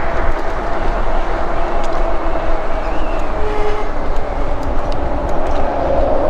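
Steady wind rush and low rumble on a chest-mounted action camera's microphone while riding an electric bike in traffic, with road noise.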